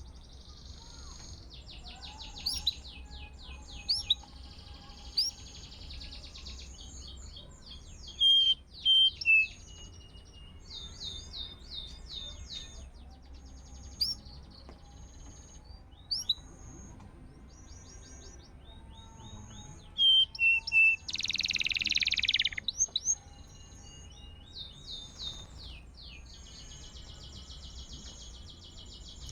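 Domestic canary singing: fast trills and rolls of rapidly repeated notes, with loud sharp chirps about eight seconds in and again about twenty seconds in, and a loud harsh rasping burst lasting about a second and a half just after. A low steady hum lies underneath.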